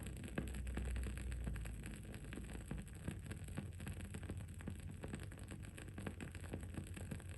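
Wood-wick candle crackling: a dense run of small, irregular pops and ticks. A low rumble of background noise runs beneath, heavier for the first couple of seconds and then easing, with a steady faint hiss.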